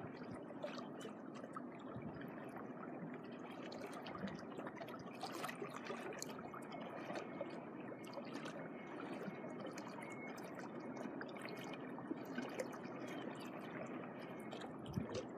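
Small waves washing gently on the shore, a faint steady wash of water with many small splashes and crackles.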